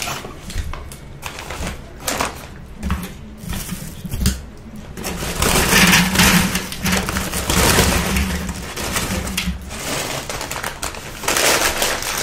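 Close-up crunching of tortilla chips being chewed, with the rustle of a paper chip bag: a run of sharp crackles that grows denser and louder through the middle and again near the end.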